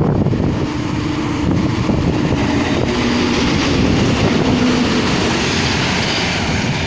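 PKP Intercity EP07 electric locomotive and its passenger coaches rolling past close by: a steady rumble of wheels on rail with a low hum underneath.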